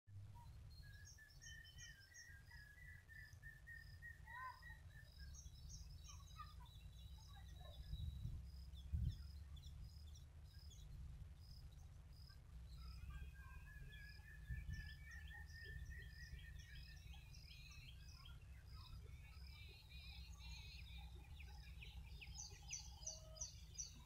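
Faint birdsong from several birds: rapid, repeated high chirps and a couple of long drawn-out calls lasting a few seconds each, over a low steady rumble. A few dull thumps come near the middle.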